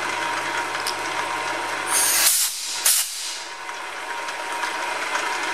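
Benchtop milling machine running an end mill through a cut, a steady motor and cutting noise with a held tone. Two short, loud hisses come about two and three seconds in.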